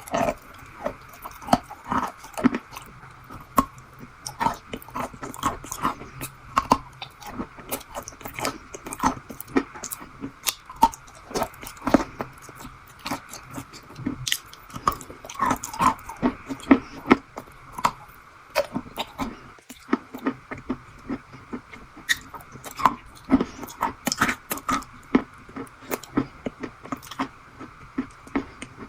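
Chewing and crunching of a strawberry crunch treat: many short, crisp crunches at an irregular pace, over a faint steady hum.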